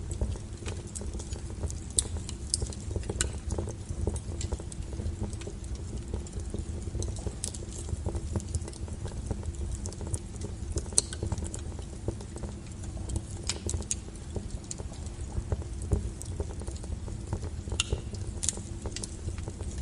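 Wood fire burning: a steady low rumble of flames with irregular sharp crackles and pops from the burning firewood.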